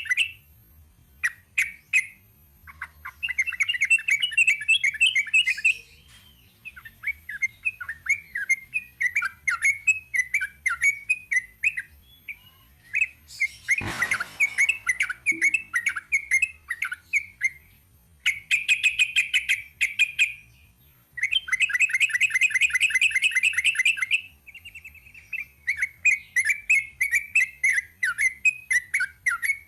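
Yellow-vented bulbul singing in bouts of rapid rolling chirps, each bout one to three seconds long and separated by short pauses. A single sharp knock comes about halfway through.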